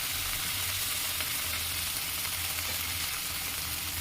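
Chicken liver and gizzard masala frying in oil in a kadai: a steady sizzle now that the oil has separated and the masala is browning against the pan. A low steady hum runs underneath.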